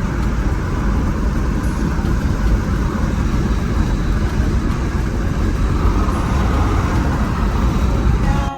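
Steady road and wind rumble of a car driving along, with no speech over it.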